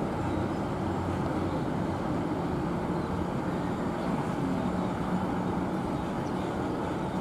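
Large bus engine running steadily, a low drone with no change in speed.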